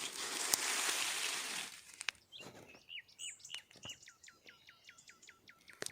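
A songbird singing: short whistled notes, each sliding down, repeated faster and faster into an even trill. For the first two seconds a loud steady hiss covers everything, then cuts off.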